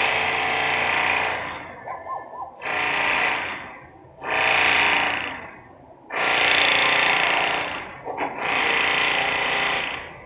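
Loud industrial machine noise in five bursts of rapid mechanical hammering, each one to two seconds long with short pauses between.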